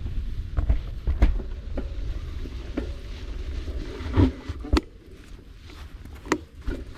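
Mountain bike ride: a steady low rumble of wind and tyres on the action camera's microphone, with sharp knocks and rattles from the bike every second or so.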